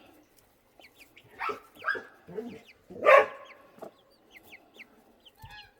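Mother hen clucking in short calls, the loudest about three seconds in, with chicks peeping in brief high notes.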